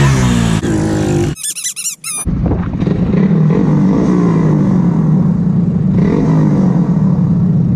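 Motorcycle engine running, its pitch falling in the first second. A brief high wavering squeal cuts in about a second and a half in, then the engine runs on with its pitch rising and falling a little.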